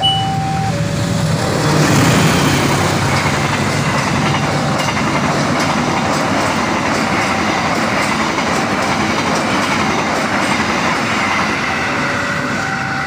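Train passing at speed through a level crossing: a loud steady rush of wheels on rail that swells about two seconds in. Over it the crossing's warning signal sounds short tones alternating between two pitches.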